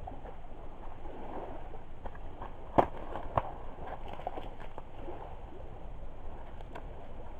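Driftwood campfire burning and crackling softly, with scattered small ticks and two sharp pops about half a second apart, a little under halfway through.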